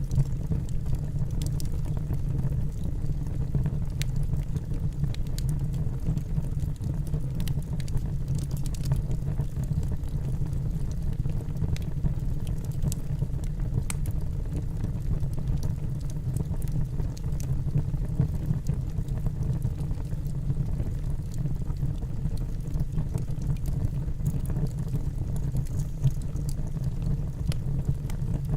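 Wood fire burning in a fireplace: a steady low rumble of the flames with scattered faint crackles and pops from the burning logs.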